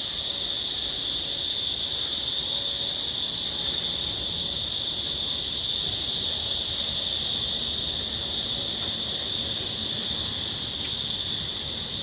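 A chorus of cicadas singing: a loud, steady, high-pitched buzzing drone that swells slightly midway.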